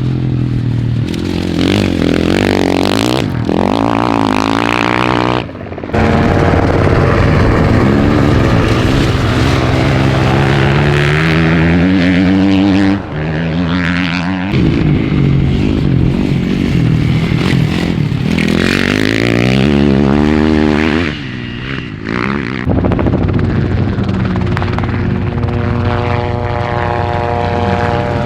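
Dirt bike engine at race pace, its note climbing through the revs and falling back again and again as it shifts or backs off, with short dips in loudness a few times.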